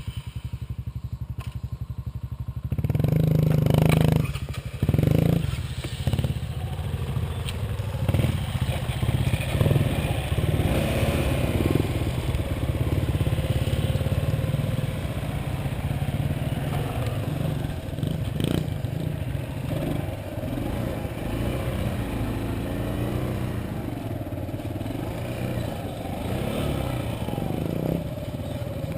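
Motorcycle engine running: a low, even pulse for the first few seconds, then louder as it pulls away about three seconds in, and running on steadily with scattered clatter.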